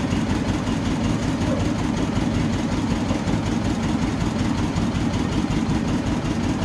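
Toyota 2TR 2.7-litre four-cylinder petrol engine idling steadily.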